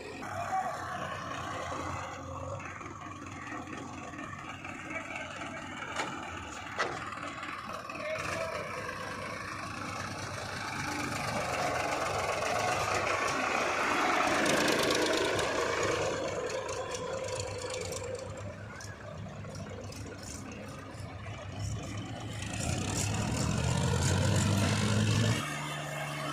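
Diesel engine of a backhoe loader working under load, with a few sharp knocks; the engine note rises and strengthens near the end, then cuts off abruptly.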